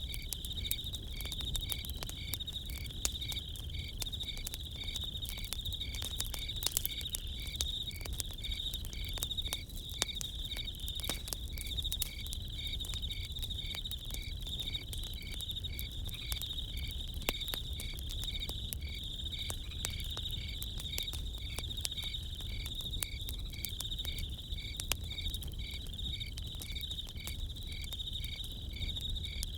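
Crickets chirping steadily, one of them in an even rhythm of about two chirps a second, over the scattered crackle of a campfire.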